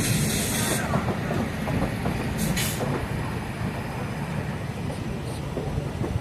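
Jhelum Express passenger train running on the track, heard from on board: a steady low rumble of the wheels and coaches, with a hiss in the first second and another short hiss about two and a half seconds in.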